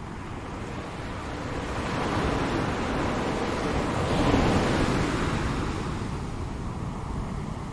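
Ocean waves: a wash of surf that builds for about four seconds, peaks, then eases off as the wave recedes.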